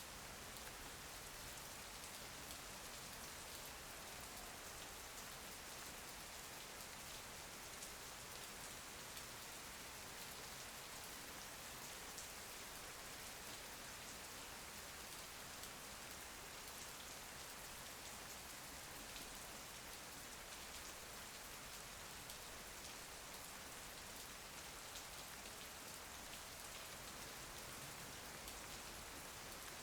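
Steady rain falling, an even patter with faint scattered drop ticks.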